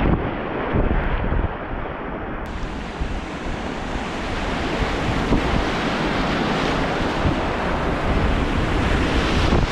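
Rushing whitewater rapids, a loud steady roar of water, with wind buffeting the microphone in gusts.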